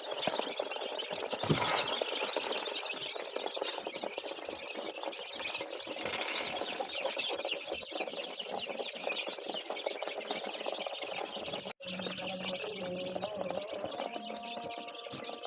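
A brood of five-day-old chicken chicks peeping continuously, many high, short cheeps overlapping, with a brief break about twelve seconds in.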